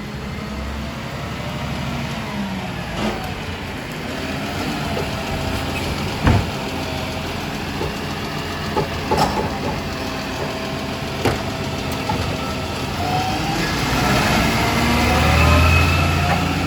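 Garbage truck engine running with a steady whine, broken by a few sharp knocks. Near the end the engine revs up louder for a couple of seconds.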